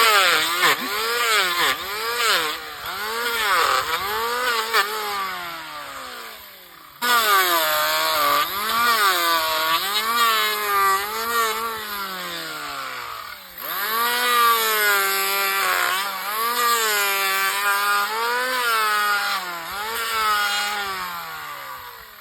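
Electric hand planer shaving a horse's hoof: its motor whine drops in pitch and climbs back again and again as the blade bites into the horn and lifts off. It runs in three stretches, with short breaks about 7 and 13.5 seconds in.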